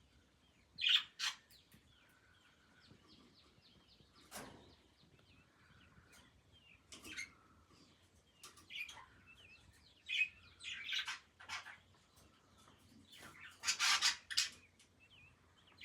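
Baby budgerigars chirping in short, irregular calls, with louder bursts of high chirps about a second in and again near the end.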